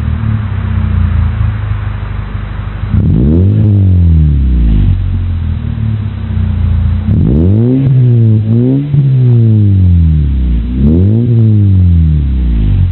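Hyundai Tiburon engine through a FOX cat-back exhaust, idling and then revved in short blips: one rev about three seconds in, two back-to-back revs past the middle, and another near the end, each rising and falling back to idle.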